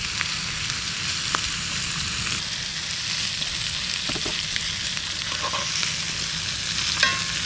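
Butter and lobster tails sizzling steadily in a cast-iron skillet over hot charcoal, with a few light taps of metal tongs against the pan as the pieces are turned.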